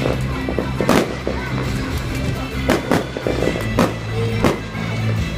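Fireworks shells bursting in a series of sharp bangs, about five spread over a few seconds, over music playing throughout.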